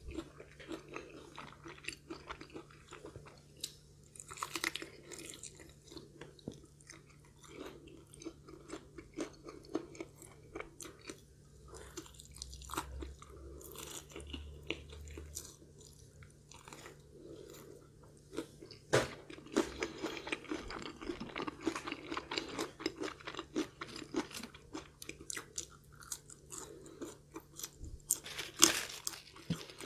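Close-up chewing of crispy fried chicken, many small crunches and bites, getting busier with a dense run of crunching about two-thirds of the way through and another flurry near the end.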